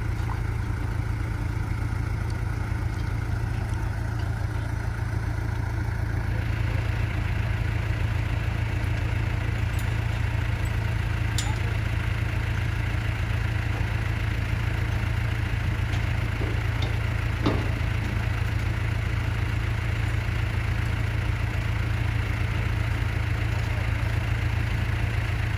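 Motorboat engine running steadily at low speed with a deep, even hum; about six seconds in a hissier, higher-pitched layer of noise comes up and stays, with a couple of faint clicks later.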